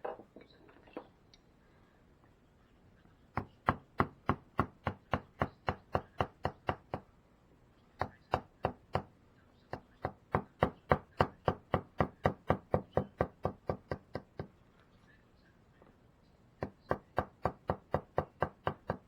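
Wooden carving mallet striking a carving chisel into wood: steady sharp knocks, about three a second, in four runs with short pauses between them.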